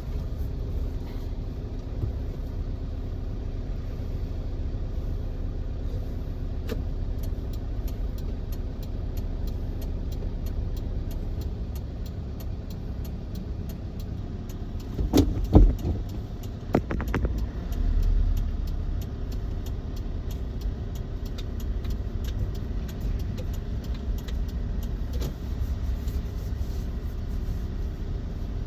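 Low, steady engine and road rumble heard from inside a car's cabin as it drives slowly. About halfway through there are a few loud, sharp knocks close together.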